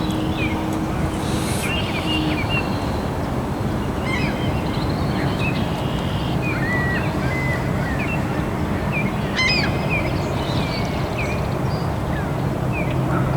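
Birds calling in scattered short chirps, with ducks and geese among them, over a steady rushing background noise. A low engine hum stops about two seconds in.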